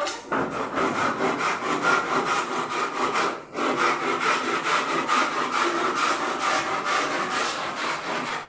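A saw cutting through wood in steady back-and-forth strokes, with a brief pause about three and a half seconds in.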